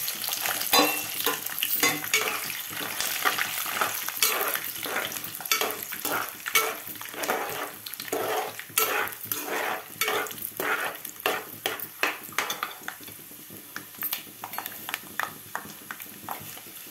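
Raw peanuts frying in hot oil in a metal pot: a steady sizzle, with a metal slotted spatula scraping and clinking against the pot as they are stirred. The sizzle is loudest as the peanuts go in and eases off toward the end.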